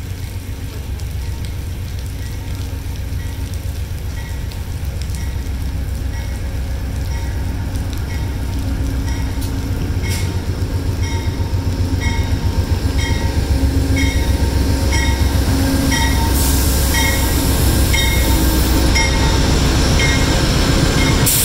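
Diesel passenger locomotive pulling into the station, its engine rumble growing steadily louder as it comes close. Its bell rings about twice a second from about nine seconds in, and a hiss comes near the end.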